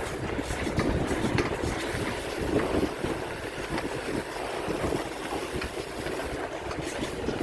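Wind buffeting the microphone during a bicycle ride: a steady low rumble.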